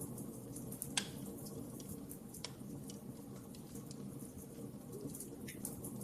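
Wood fire crackling: a steady low rumble of burning with scattered irregular pops and snaps, the sharpest about a second in.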